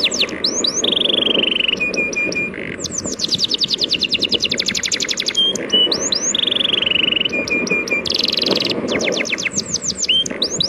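A songbird singing in repeated phrases: fast runs of high down-slurred notes, short trills and a buzzy note, the same phrase coming round about every five seconds, over the steady wash of sea waves.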